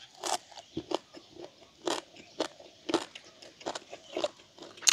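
A person chewing a mouthful of papaya salad close to the microphone: short, crisp crunches, about two or three a second.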